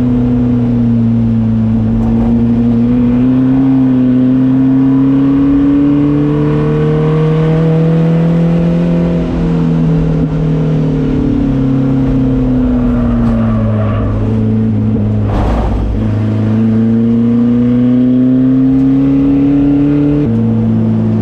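Race car's engine running steadily at speed, its pitch rising and falling slowly. There is a brief thump about fifteen seconds in, and a sudden step down in pitch near the end.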